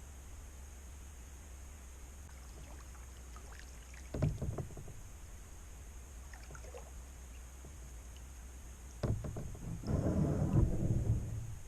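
Kayak paddle dipping and splashing in the water: a short splash about four seconds in, then a longer, louder run of splashing near the end, over a steady low hum.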